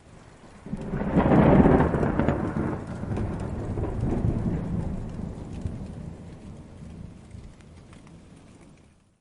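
A roll of thunder from a distant thunderstorm, with rain. It rises sharply about a second in, swells again around four seconds and rumbles away, then the sound cuts off suddenly near the end.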